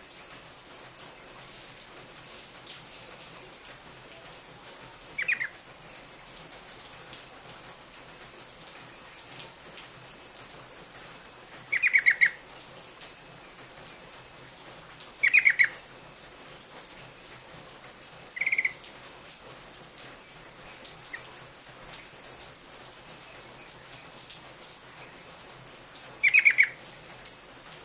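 Yellow-vented bulbul (trucukan) calling in five short bursts of quick, bubbly notes spaced several seconds apart, over a steady background hiss.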